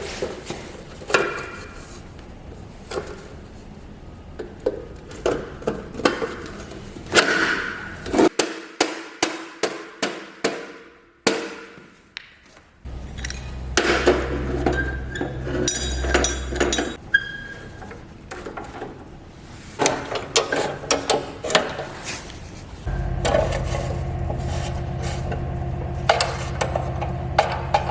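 Workshop tool noise: a run of sharp knocks and taps like hammering, then a steady low machine hum that starts about halfway through and again near the end, with more knocks over it.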